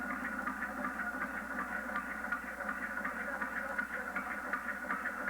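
Scale model engine's animated mechanism running on its small DC motor: a steady whir with rapid, light ticking from the moving parts.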